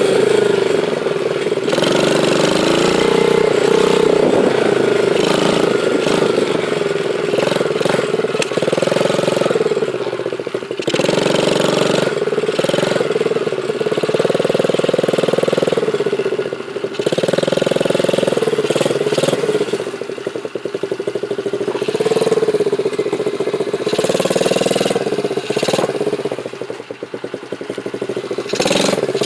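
Dirt bike engine running under throttle, its pitch rising and falling over and over as it speeds up and eases off, with several brief drops in level.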